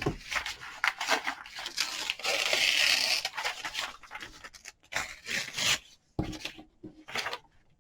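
Paper being worked by hand at a craft table: a run of short, crisp paper snips and crackles, with a longer rasping paper sound about two to three seconds in.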